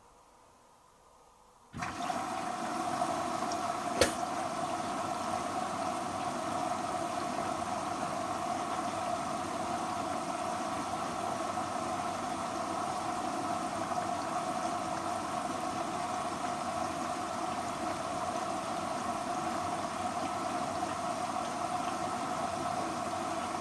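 Hoover H-Wash & Dry 500 washer dryer's water inlet opening about two seconds in, then water rushing steadily into the machine as it fills. A single sharp click about four seconds in.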